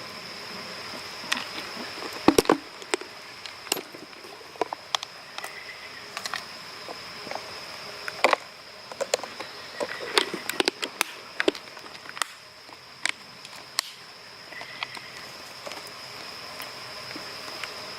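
Insects trilling, a steady high-pitched chorus with a fainter lower trill coming and going, under irregular clicks and rustles of things being handled, the loudest knocks about two seconds in.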